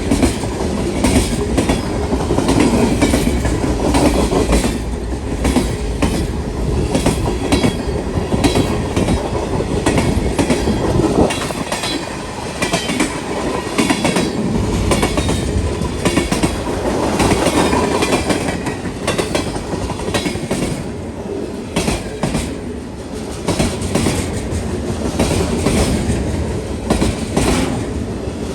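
Freight cars of a long CSX freight train rolling past, steel wheels clicking rhythmically over the rail joints under a steady rumble. Faint high wheel squeals come through now and then around the middle.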